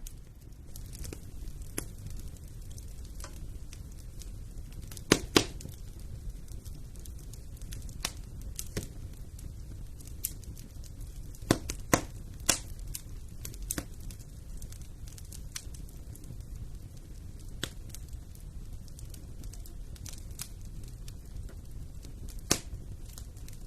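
Wood fire burning in a fireplace: a steady low rumble of the flames with scattered sharp pops and crackles from the burning logs, the loudest coming about five seconds in, around twelve seconds, and near the end.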